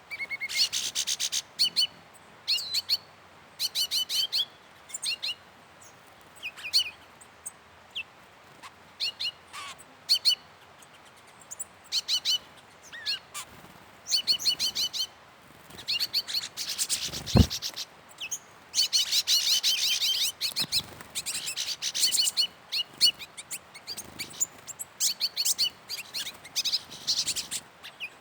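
A songbird singing: a string of short phrases, each a quick run of high chirps, repeated every second or two. One sharp knock about two-thirds of the way through.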